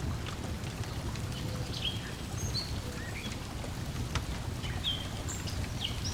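Wood fire crackling with scattered small pops over a steady low wash of water lapping at a shore, while small birds chirp briefly now and then.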